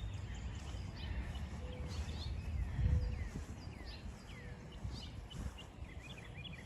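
Songbirds chirping: many short high chirps and downward-slurred notes scattered throughout, over a low rumble on the microphone.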